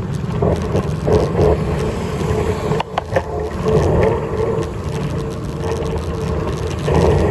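Wind rushing over the microphone and road noise while riding a bike: a steady low rumble with a faint hum that comes and goes, and a couple of sharp clicks about three seconds in.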